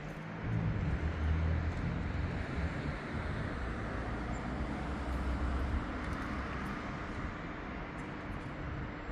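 City street ambience with traffic noise: a low engine rumble from a passing vehicle runs through the first two thirds and then fades, over a steady hum.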